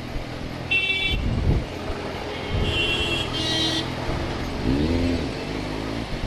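Street traffic: vehicle horns honk three times in short blasts, about a second in and twice around three seconds, over steady engine hum. An engine's pitch rises and falls briefly about five seconds in.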